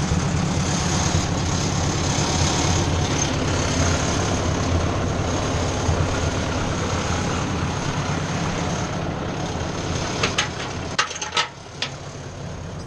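Ford 600 tractor engine running steadily, easing down about eleven seconds in. A few sharp knocks come just before and as it eases down.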